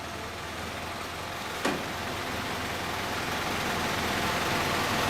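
An engine running steadily, with a single sharp click about a second and a half in.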